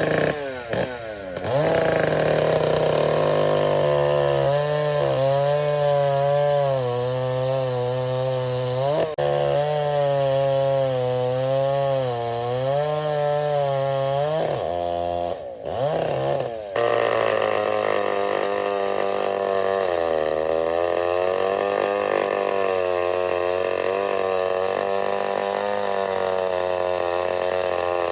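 Vintage chainsaw engine running at high revs, its pitch wavering under load as it cuts wood. Near the start and again about halfway through, the revs drop and rise quickly before it settles back into the cut.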